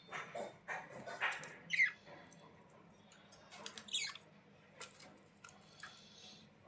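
Budgerigars chirping and chattering in short bursts of quick, gliding high notes, with a few sharp clicks in between.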